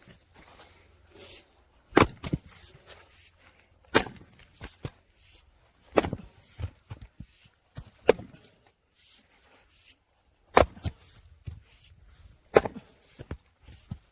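Firewood being split: a sharp strike into the wood about every two seconds, several followed by a lighter knock or crack.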